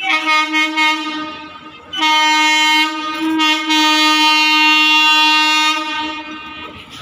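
Indian Railways electric locomotive sounding its horn: a blast of about two seconds, then a longer, steady blast of about four seconds that fades near the end.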